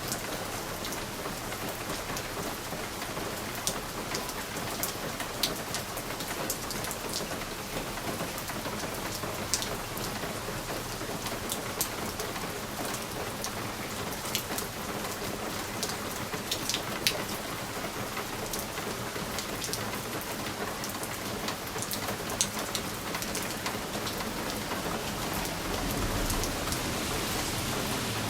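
Steady rain on window glass, with single drops ticking sharply against the pane here and there. A low rumble swells in near the end.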